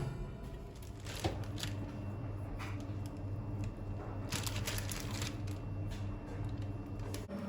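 Kitchen handling noises: short rustling and scraping sounds every second or so, over a steady low hum.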